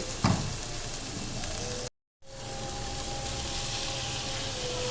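Chopped vegetables (carrot, capsicum and cabbage) sizzling as they fry in hot oil in a pan. The sound cuts out to silence for a moment about two seconds in, then the steady sizzle resumes.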